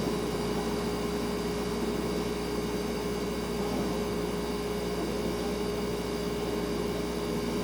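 Refrigerator running with a steady hum and one clear, unwavering tone over an even hiss, with no change in pitch or level.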